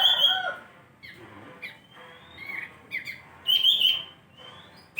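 Kapas tembak bulbul singing in short, separate whistled phrases with gliding notes, the loudest near the start and about three and a half seconds in.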